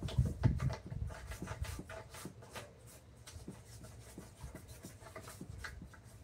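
Hand work on wood: irregular short scraping and tapping strokes, with heavier knocks in the first second, then lighter, quicker scrapes.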